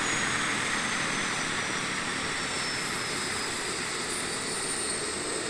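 Jakadofsky 5000 turbine of a giant RC Bell 412 scale helicopter, a high whine that falls slowly in pitch over a steady rushing noise of rotor and exhaust, easing gradually in level.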